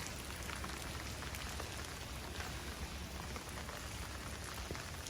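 Heavy rain falling steadily, with many small drop impacts, over a low steady rumble.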